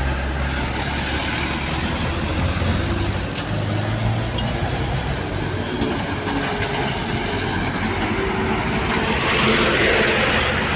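Diesel truck engine running hard under load on the climb, with road and tyre noise, and a thin high whine for a few seconds in the middle.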